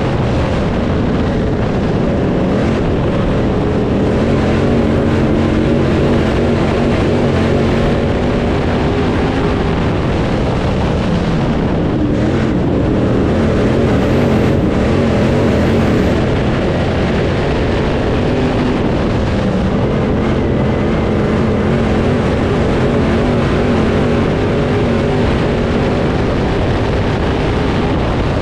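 Crate late-model race car's V8 engine running hard under racing load, its pitch rising and falling every few seconds as it speeds up down the straights and lifts for the corners.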